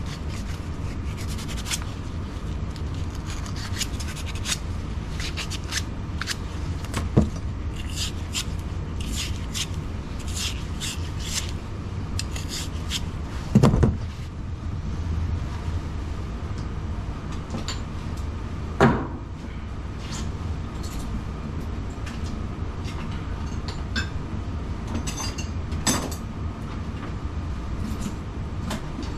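Hand work during a water heater job: scattered light clicks and scrapes over a steady low hum, with a few louder knocks, about a quarter, half and two-thirds of the way through.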